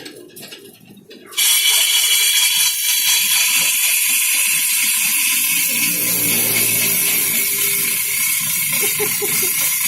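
A workshop power tool or machine starts suddenly about a second and a half in and runs with a loud, steady hiss.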